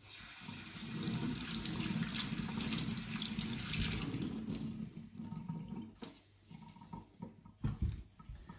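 Tap water running and splashing into a sink as a vacuum's sponge filter is rinsed and worked under it; the flow drops off about five seconds in, leaving a few short splashes and bumps.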